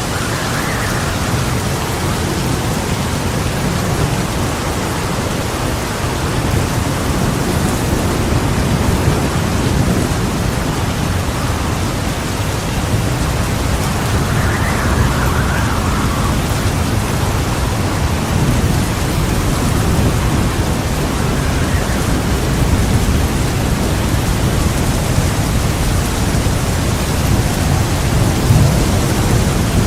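Heavy rain falling steadily with a continuous low rumble of thunder underneath. The rain's hiss swells briefly a few times, about every several seconds, with no sharp thunderclap.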